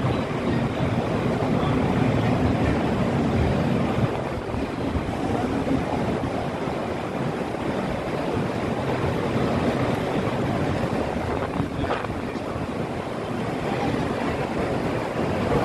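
Passenger train coach rolling slowly out of a station: a steady rumble from the running gear, heard through an open barred window inside the coach.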